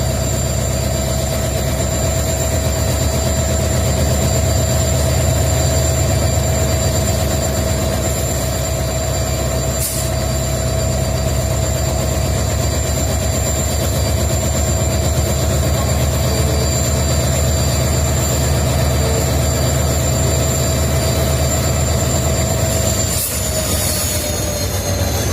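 Twin EMD WDG4 (GT46MAC) diesel-electric locomotives running after start-up, their 16-cylinder two-stroke EMD 710 engines giving a steady low hum with steady high-pitched whines over it. Near the end the whines begin to slide down in pitch.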